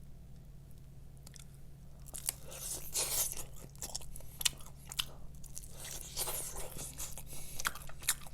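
Biting into and chewing a piece of KFC garlic-bread fried chicken: irregular crisp crunches of the coating begin about two seconds in, over a steady low hum.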